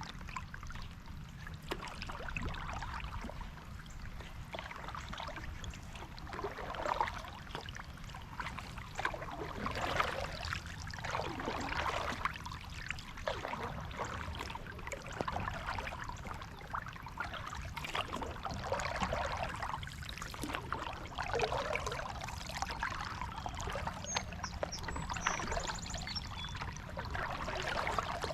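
Kayak paddle strokes swishing through the water at irregular intervals every couple of seconds, with water pouring and trickling off the blade, over a steady low rumble.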